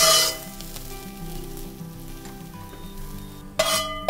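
Dried shrimp and chopped green onion sizzling in oil in a wok. A last loud stir-fry toss comes at the start, then the sizzle goes on more quietly, and there is a sharp, brief burst near the end as the wok is tipped out into a glass bowl. Light background music plays underneath.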